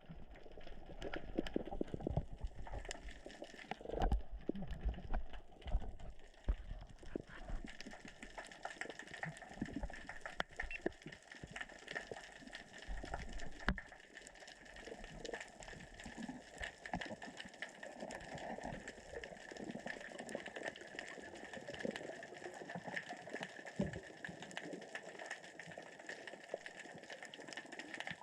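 Underwater crackling and clicking of small rocks rolling across the sea floor in the current and tide. Low surging thumps come through in the first several seconds and again about halfway through.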